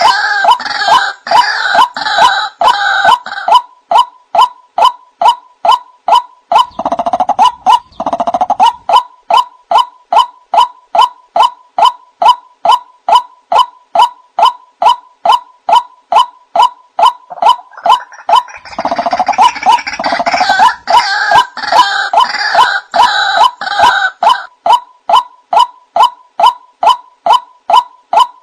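White-breasted waterhen (ruak-ruak) calling: a loud, sharp note repeated about twice a second, with harsh croaking bursts laid over it at the start and again from about 19 to 24 seconds in. It is the call the birds use to gather others, played from a recorded lure track.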